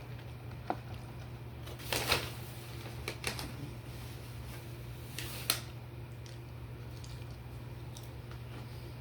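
Eating and food-handling noises: a few brief rustles and sharp clicks, with a rustle about two seconds in and another near the middle, over a steady low hum.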